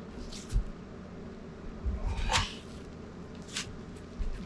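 Handling noise from a heavy wooden building piece being lifted and moved by hand: a dull thump about half a second in, then two short sharp scuffs a little past two seconds and around three and a half seconds.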